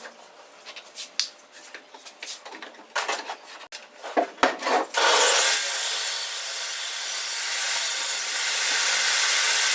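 Hand-held tool working wood: scattered knocks and taps, then from about halfway a steady rasping scrape of the tool on wood.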